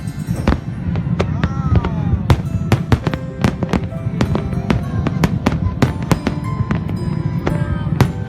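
Firecrackers and fireworks going off in rapid, irregular bangs, several a second, with music and voices behind them.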